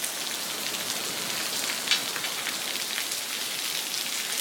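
Heavy rain pouring steadily, with scattered sharp drip and splash taps and one louder tap about two seconds in.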